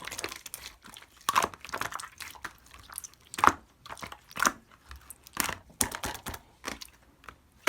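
Clear slime being squeezed and pressed by hand, giving a run of wet crackling and popping bursts about once a second, the loudest about three and a half seconds in.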